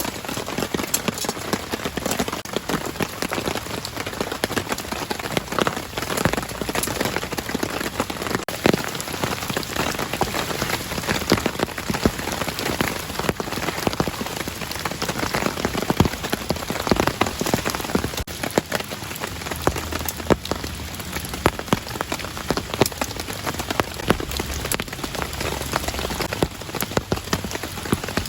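Steady rain falling, with many close, separate drop strikes against a continuous hiss.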